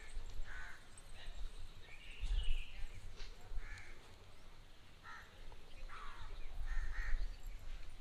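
Short bird calls, repeated several times at uneven gaps, over a low rumble.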